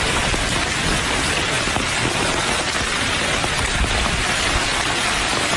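Heavy rain pouring steadily onto a tiled floor, an even hiss of falling drops.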